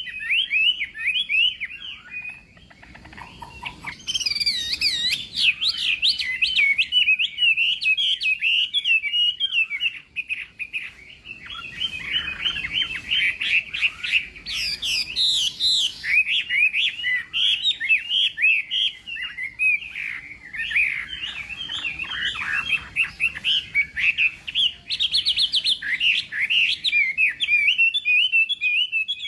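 Chinese hwamei singing a long, varied song of rapid whistled phrases, broken by brief pauses a few seconds in and about a third of the way through.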